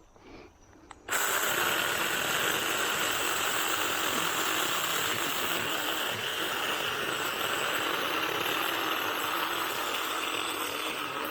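Small 6-inch battery-powered mini chainsaw switched on about a second in, then running steadily as its chain cuts into a tallow tree trunk.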